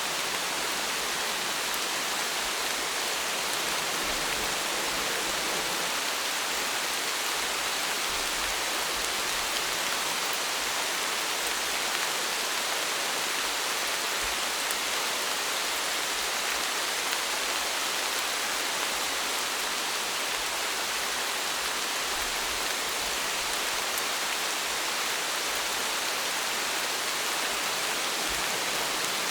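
Steady rain falling, an even hiss of many raindrops on surfaces.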